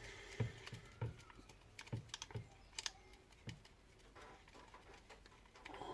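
Small irregular clicks and taps of a screw being driven by hand into an angle grinder's housing. They fall over the first three and a half seconds and then stop.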